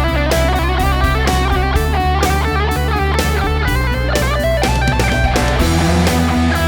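Electric guitar with humbucker pickups played through an amp-simulator plugin set for a distorted lead tone, playing a melodic line of held and stepping notes over a rock backing track with bass and steady drum hits.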